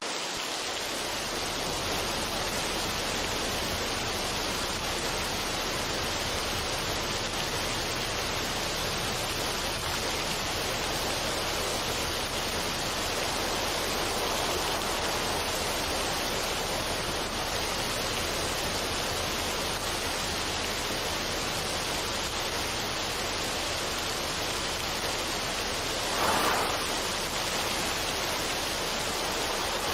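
Steady, even rushing noise of a relaxation ambience track, water-like in character, with one brief swell in loudness near the end.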